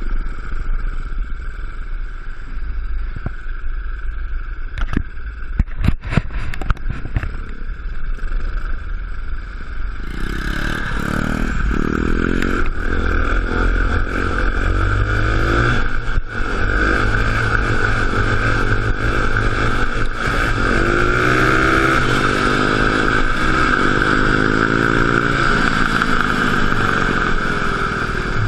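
Small mini-bike or quad engine running, revving up and down, with a few sharp knocks about five to seven seconds in.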